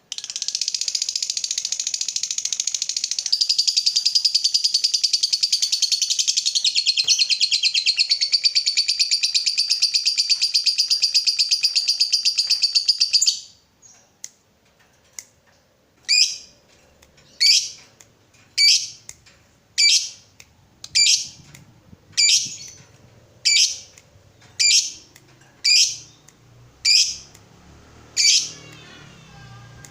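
Lovebird chattering in one long, very rapid unbroken trill ("ngekek panjang") for about thirteen seconds. After a short pause come single sharp, high calls at about one a second.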